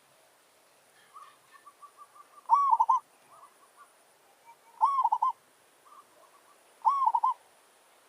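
Zebra dove (merbok) cooing: three phrases about two seconds apart, each a few soft short notes leading into a louder quick run of rolling coos.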